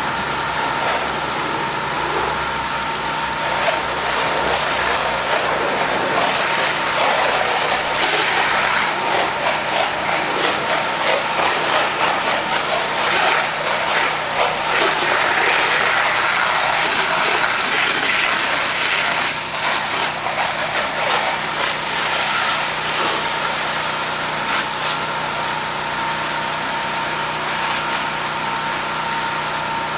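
Pressure washer running steadily while its water jet rinses loose dirt off vinyl house siding. The spray noise grows louder through the middle stretch, then eases.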